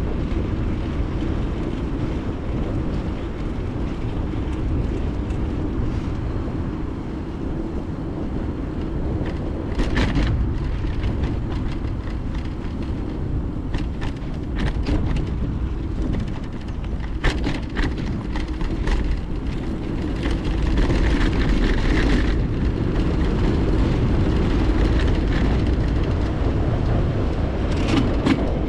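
Bicycle riding heard from a GoPro mounted on the bike or rider: a steady low rumble of wind on the microphone and rolling tyres, with a few sharp knocks and rattles from the bike scattered through the middle and again near the end.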